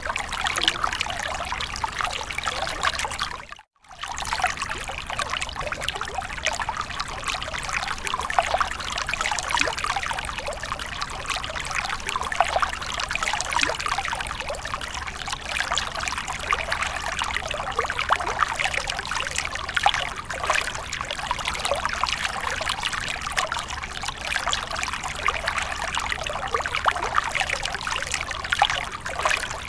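Running water splashing and trickling steadily, a dense bubbling patter, with a brief break to near silence between about three and a half and four seconds in.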